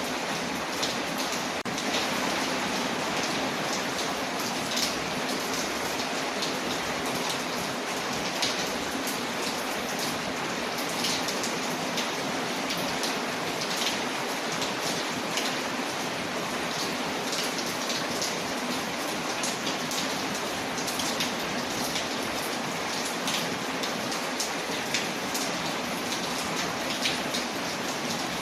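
Steady rain falling on a surface, an even hiss with frequent small sharp ticks and taps scattered through it.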